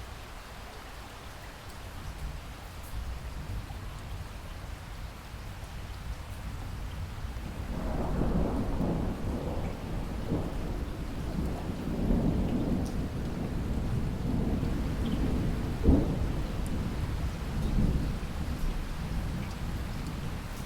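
Steady rain with thunder rumbling in about a third of the way through. The thunder swells to a sharp crack a little past the middle, rolls on with a smaller peak, then eases near the end.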